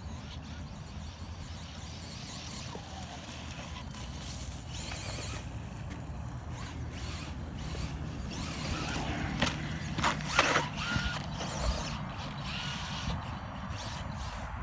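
Losi Promoto RC motorcycle running, its electric motor and spinning gyro flywheel giving a steady hum that grows louder over the first half. A few sharp knocks come about ten seconds in.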